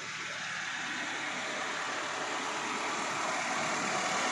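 Maruti Gypsy's 1.3-litre four-cylinder petrol engine idling steadily, growing slowly louder.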